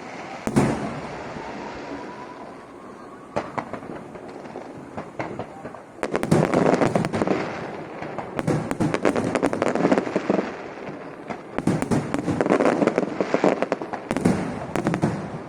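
Aerial fireworks shells bursting overhead: a faint rising whistle ends in a sharp bang about half a second in, followed later by two long runs of dense, rapid crackling.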